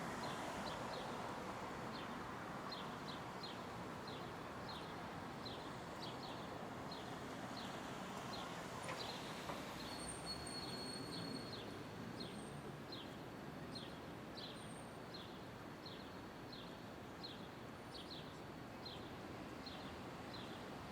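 Downtown street ambience: a steady haze of city traffic noise, with a high chirp repeating about twice a second and a brief high whistle about ten seconds in.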